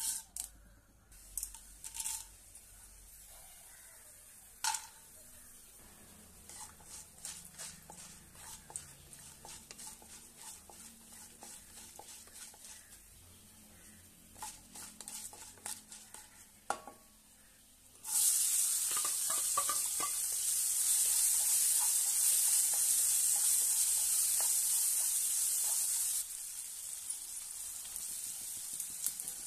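Tempering in hot oil in a kadai: scattered small pops and clicks as mustard seeds, urad dal, chana dal and cashews fry. About two-thirds of the way in, a sudden loud steady sizzle starts as chopped onions go into the oil, easing slightly near the end.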